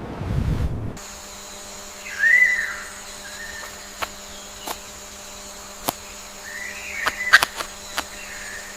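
A whistled call that rises and falls, heard once about two seconds in and again, longer, around six to seven and a half seconds in. Under it runs a steady hum, with a few sharp clicks scattered through.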